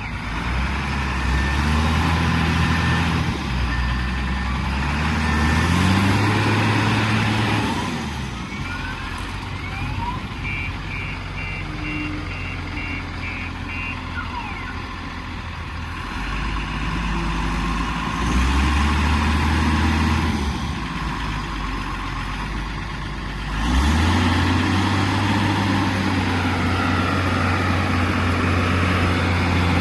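Heavy vehicle engine running, its revs rising and falling several times and running up higher near the end. In the middle comes a run of about eight short, evenly spaced reversing beeps.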